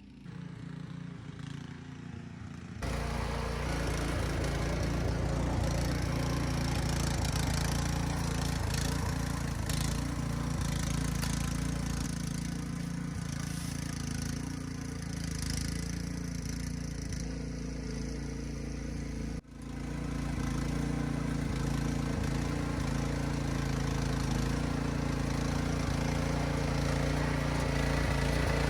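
Small gas engine of a Troy-Bilt CRT rear-tine garden tiller running steadily while tilling soil, starting about three seconds in. It breaks off for an instant about two-thirds through and picks straight up again.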